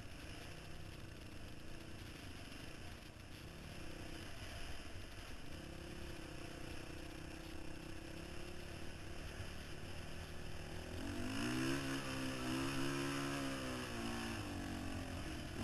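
Dirt bike engine revving, its pitch rising and falling as the throttle changes. It is faint at first and becomes clearly louder from about eleven seconds in.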